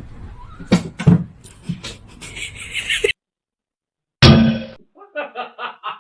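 Three knocks or thumps in the first two seconds, then a hissy scuffle that cuts off abruptly. After a second of silence comes one short loud burst, and a person starts laughing in short, even snickers.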